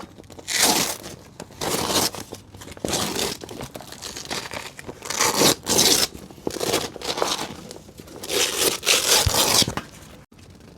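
Repeated crinkling and tearing sounds, about one loud rustle a second, stopping shortly before the end.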